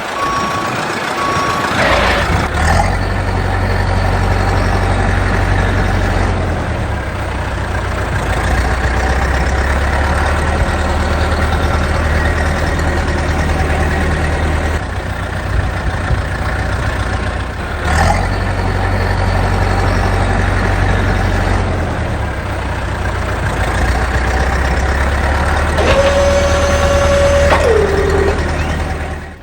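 Truck engine running steadily, with reversing beeps in the first second or so. There is a short whoosh about two seconds in and again around eighteen seconds. Near the end comes a held tone that drops in pitch.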